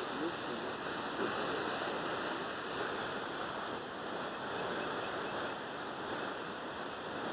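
Steady rushing of falling water from a waterfall, an even unbroken roar with no change over the few seconds.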